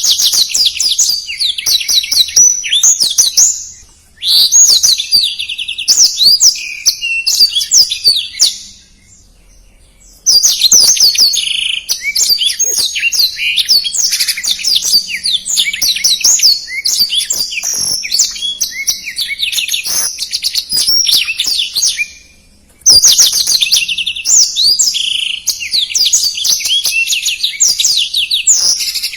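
Black-throated canary (blackthroat) singing a fast, dense song of rapid twitters and trills in long unbroken phrases, with brief pauses about four seconds in, around nine to ten seconds in, and about twenty-two seconds in.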